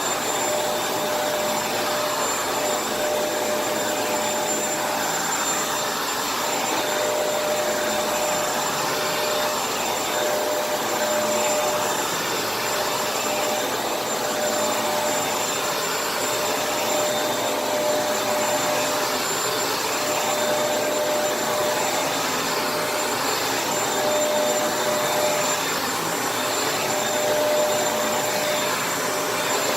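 Kenmore vacuum cleaner running steadily: a rush of air with a steady motor whine.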